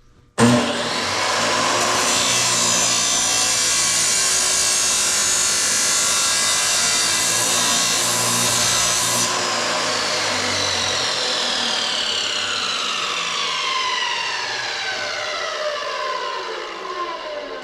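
An electric power tool with a spinning motor starts suddenly and runs with a harsh, steady grinding noise for about nine seconds. It is then switched off, and its whine falls steadily in pitch as it spins down.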